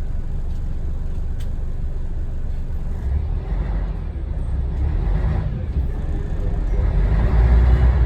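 Scania DSC1171 11-litre six-cylinder diesel engine of a 1993 Scania L113TRB bus running with a low rumble. It grows louder about three seconds in and again near the end.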